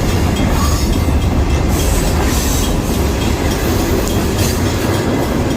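Freight train rolling past close by: a steady heavy rumble with wheels clacking over the rail joints.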